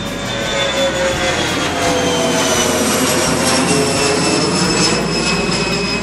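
Jet engines of an American Eagle regional jet climbing out just after takeoff: a steady roar with a whine that slides slowly down in pitch as the plane passes and moves away.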